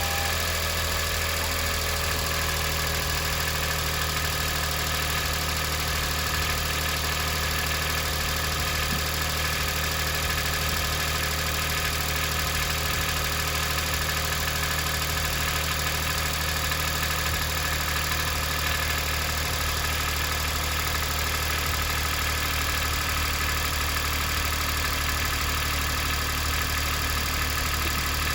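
A worn Daihatsu Atrai Wagon 660 cc three-cylinder engine, over 110,000 km and burning oil, idling steadily on freshly added motorcycle 15W-50 oil.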